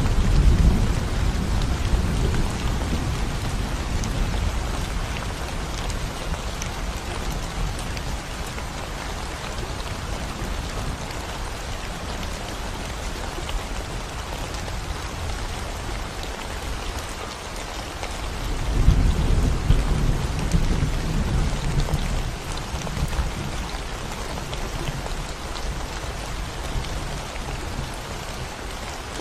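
Steady rain falling on a concrete road, with low rumbles of thunder: one fading away in the first few seconds and another swelling up about two-thirds of the way through, then dying away slowly.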